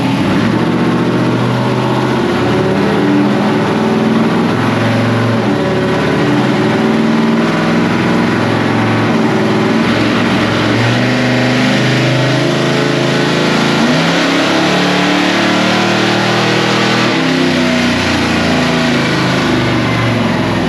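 1961 Ford gasser truck's small-block Ford V8 run hard on chassis dyno rollers, loud and sustained, its pitch stepping up and down rather than climbing smoothly. It is running lean, at about 15 to 16 to 1 air-fuel, on gasoline with E85 mixed in by accident.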